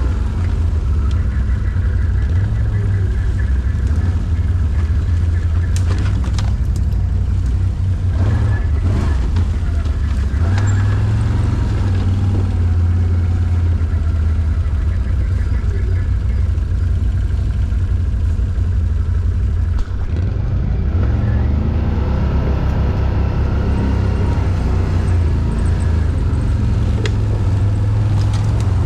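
ATV (quad bike) engine running steadily, a deep continuous drone.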